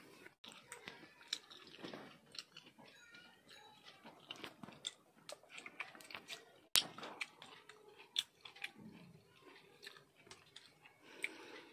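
A person eating chicken curry and roti, with faint chewing and small crunching clicks throughout and one sharper click about seven seconds in.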